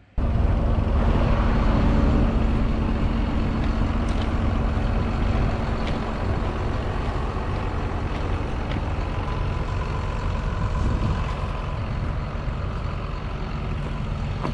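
Heavy truck engine running steadily: a deep rumble with a steady hum over it, starting abruptly at the start and easing slightly near the end.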